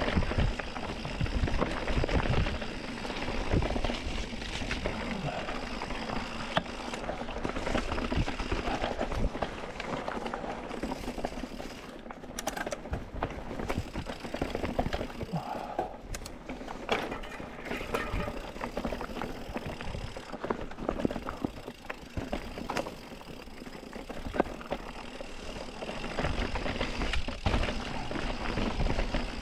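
Mountain bike rolling over a rough dirt and rock trail: continuous tyre and rolling noise with a low rumble, scattered clicks, knocks and rattles from the bike over the bumps, a little quieter in the middle.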